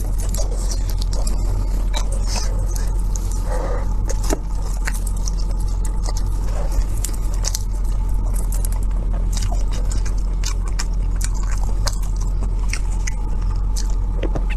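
Close-miked eating: chewing and biting, with many small clicks and smacks scattered through, over a steady low hum.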